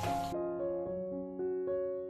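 Soft solo piano background music, single notes struck one after another and left to ring. A hissing noise under it cuts off suddenly about a third of a second in.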